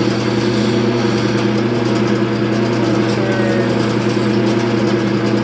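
Wood lathe running at a steady speed, its motor giving a constant hum over an even hiss, while a bowl is being turned.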